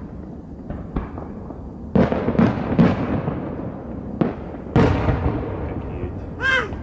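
Aerial fireworks bursting: about six sharp bangs over a few seconds, each trailing off in a rumbling echo.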